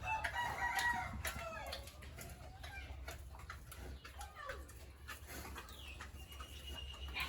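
Rooster crowing: one long call in the first two seconds, over a steady low hum.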